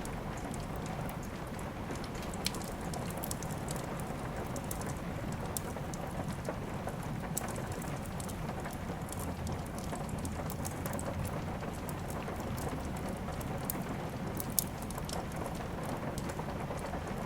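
Steady rain with a wood fire crackling, scattered sharp pops over the even hiss; the loudest pop comes a few seconds before the end.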